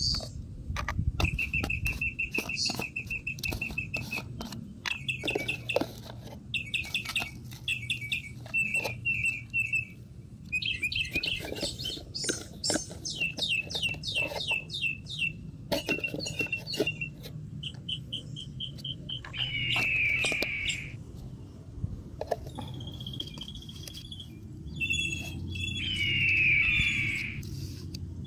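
Small birds chirping and trilling over and over, in quick runs of short notes. Intermittent clicks and knocks come from plastic bottles and caps being handled.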